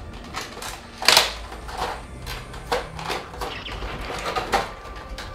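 Handling noise from a collectible action figure being turned over and shown: a string of light knocks and clicks, the loudest about a second in.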